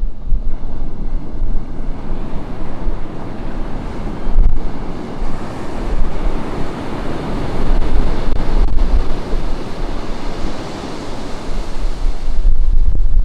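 Ocean surf breaking and washing up the beach in a steady hiss that swells and ebbs, loudest about two-thirds of the way through. Wind buffets the camera's built-in microphone with a low rumble.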